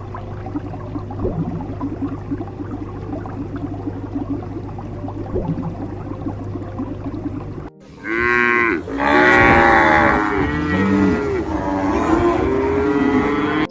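Cattle mooing: several loud, drawn-out moos from about eight seconds in. They follow a stretch of steady background noise with a low hum.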